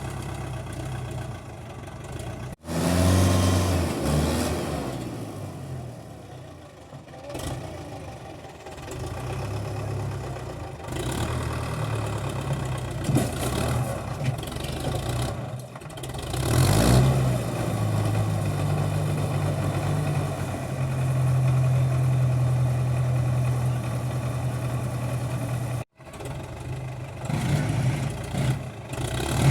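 Tractor diesel engine running and revving, its pitch climbing and falling as it pulls under load. The sound breaks off abruptly twice.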